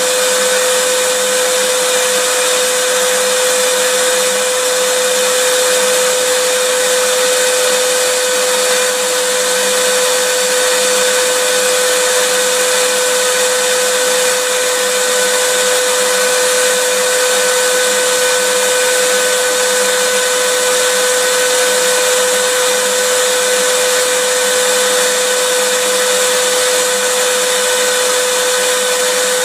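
Vacuum cleaner running steadily, a constant whooshing hum with a high steady whine, unchanging throughout; used as white noise to lull a baby to sleep.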